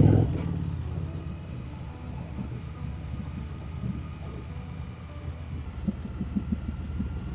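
Harley-Davidson Street Rod 750's V-twin engine running steadily under way, with a run of short irregular pulses about six seconds in.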